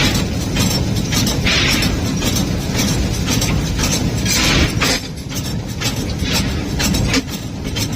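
W.H. Eccles Lumber Co. No. 3, a Heisler geared steam locomotive, working at its firebox: a steady low rumble of the fire with a fast, even beat of short strokes, roughly four a second. Two bursts of hiss come about a second and a half in and again past four seconds.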